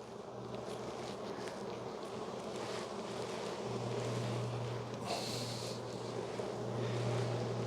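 Honey bees buzzing in a steady low hum from an opened, crowded hive, with a brief hiss about five seconds in.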